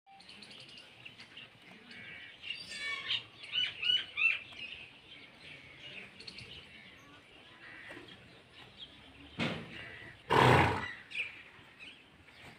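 Small birds chirping and tweeting, with a cluster of quick, bright calls a few seconds in. About ten seconds in comes a short, loud rush of noise.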